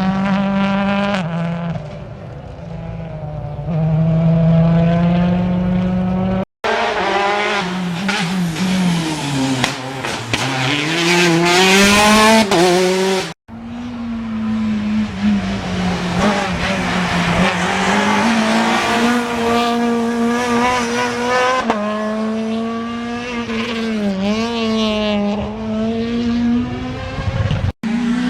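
Rally cars' engines at full race pace, each note rising under acceleration and dropping at the gear changes and lifts. The sound cuts off abruptly three times as one car's run gives way to another's.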